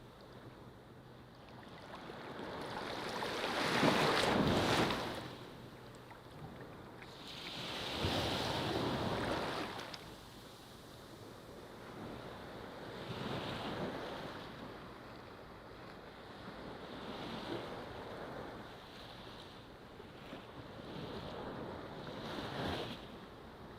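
Ocean waves on a beach, surging in and washing back every few seconds; the biggest breaks about four seconds in, another about eight seconds in, then smaller ones follow.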